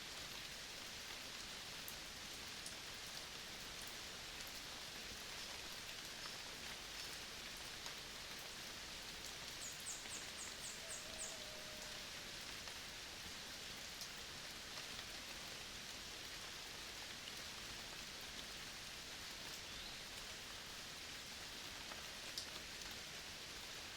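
Steady rain falling on vegetation, an even hiss with scattered drip ticks. About ten seconds in comes a quick run of six short, high chirps.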